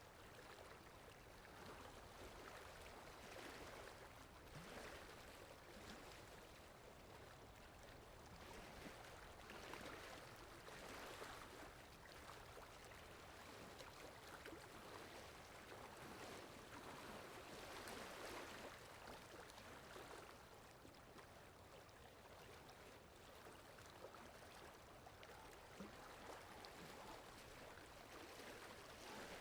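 Faint, steady flowing-water ambience from an added water sound effect, swelling and easing every few seconds.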